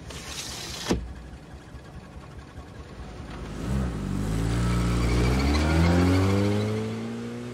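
Small sedan's engine pulling away and accelerating, rising steadily in pitch, then levelling off and fading as it drives off. A sharp knock sounds about a second in.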